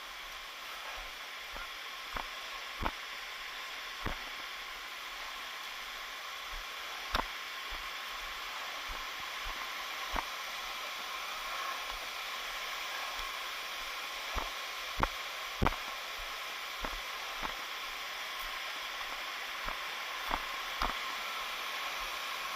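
Steady rushing of a waterfall, with a dozen or so short, sharp clicks or taps at irregular intervals.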